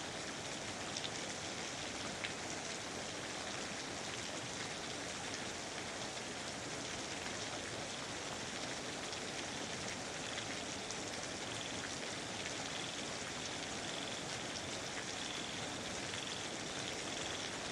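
Steady rainforest rain falling, with a few separate drops ticking now and then. From about halfway through, a faint high call repeats in short pulses over the rain.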